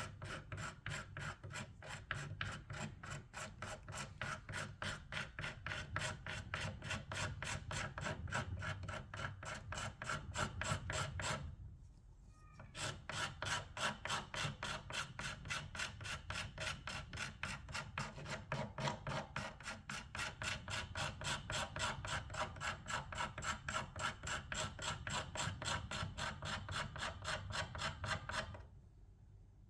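Quick, even hand strokes rubbing old paint and finish off a surface, one rasping stroke after another, stopping briefly about twelve seconds in and again near the end.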